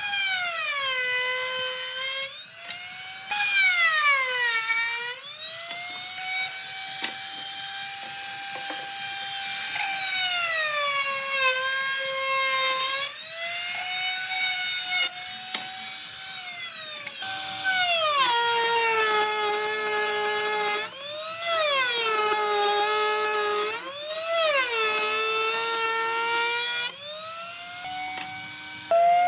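High-revving electric power tool motor whining, its pitch sagging when the tool is pressed into the work and climbing back when it is eased off, over and over. The sound breaks off abruptly several times.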